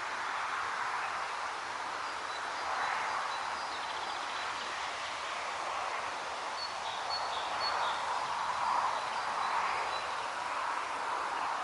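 Wind rustling through foliage by a pond, a steady hiss that swells and eases every few seconds, with faint high bird chirps twice.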